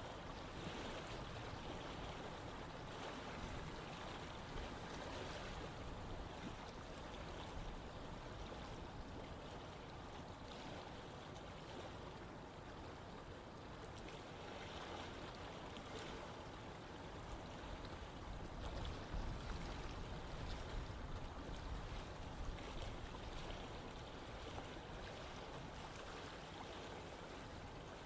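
Running water from a stream or river, a steady rushing and burbling that swells slightly and settles.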